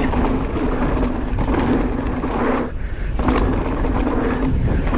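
Marin Alpine Trail E2 electric mountain bike being ridden down a rough trail: a loud rumble of wind and tyres with rattles and knocks over bumps, and a steady hum that drops out briefly about halfway through.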